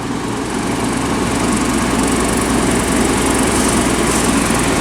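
Large diesel engine of a heavy vehicle running steadily and loudly with an even drone.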